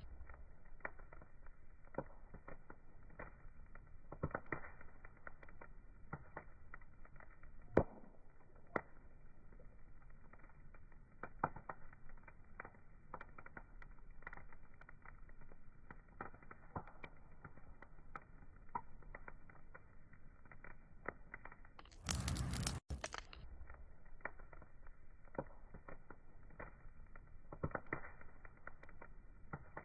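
Wood fire crackling: a soft steady hiss with frequent irregular pops and snaps. About 22 s in, a brief louder rush of noise lasts under a second and cuts off suddenly.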